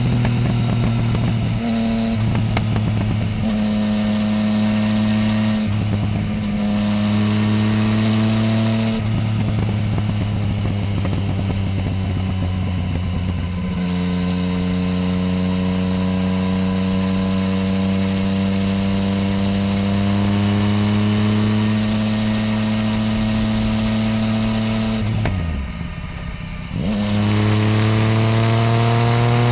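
Yamaha Tracer 900 GT's inline three-cylinder engine, breathing through a full Roads Italia exhaust with no dB-killer, pulling hard through the gears. Several short rising pulls are cut by quick upshifts in the first third, followed by one long, slowly rising pull. About 25 s in the revs drop off the throttle for a moment, then climb again.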